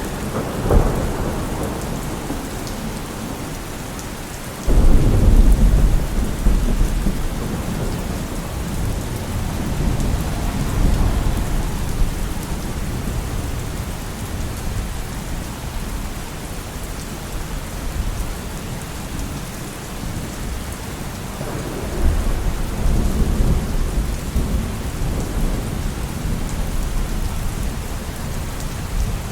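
Steady rain falling, with a deep rumble that starts suddenly about five seconds in and fades slowly, and another near the end.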